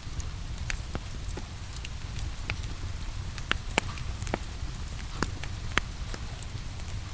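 Wood fire crackling with scattered sharp pops, a few louder ones in the middle, over a steady rumble and the even hiss of rain.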